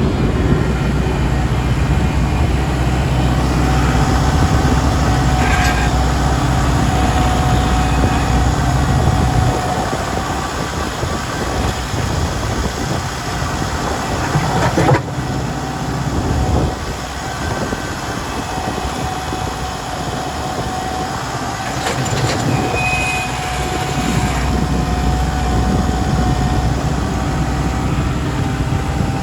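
Kubota L5240 tractor's diesel engine running while plowing snow, its low hum easing off for a stretch in the middle and rising again near the end, with a faint steady whine. There are a few sharp knocks and clanks partway through.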